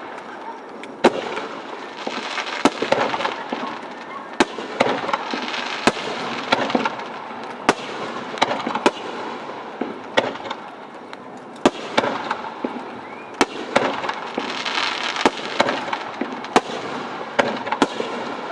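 Aerial fireworks bursting in quick succession, sharp bangs about once a second, over a continuous crackling hiss that swells twice.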